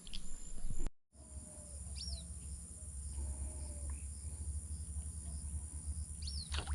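A few short, high bird chirps, one about two seconds in and another near the end, over a steady low outdoor hum. The sound drops out briefly about a second in.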